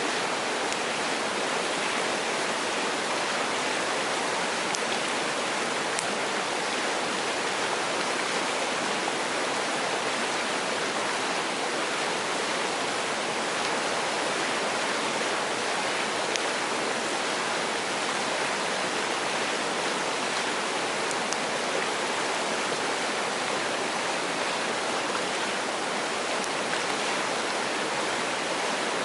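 Mountain stream rushing steadily over rocks, with a few faint sharp clicks scattered through it.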